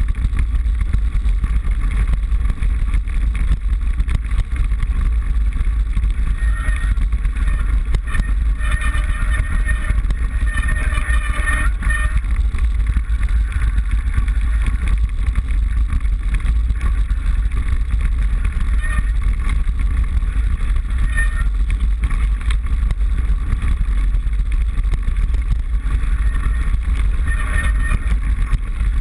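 Steady low rumble of wind buffeting and vibration on a handlebar-mounted action camera as a mountain bike rides over rough dirt road, with a brief higher-pitched sound coming in twice.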